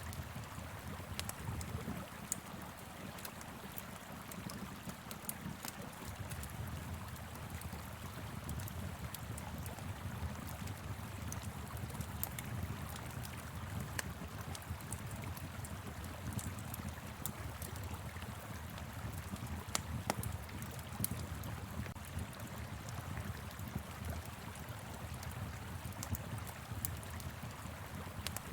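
Wood fire crackling, with frequent sharp pops and snaps scattered irregularly, over the steady low rush of a flowing river.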